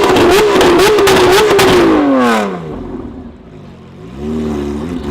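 A high-performance car engine revved hard and held high with a wavering note and rapid crackling, then falling away sharply about two seconds in. A lighter rev rises and holds near the end.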